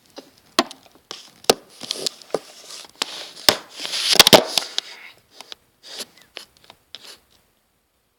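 Handling noise: irregular clicks, taps and rustles close to the microphone, with a dense cluster about four seconds in. The sound cuts to dead silence about a second before the end.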